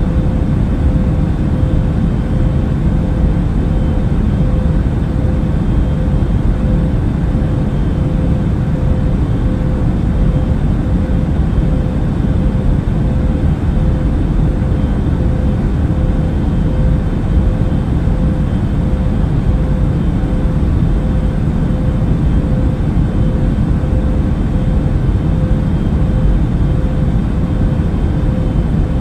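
Airliner cabin noise in flight: a steady, deep rumble of engines and rushing air, with a faint steady hum riding on top and no change throughout.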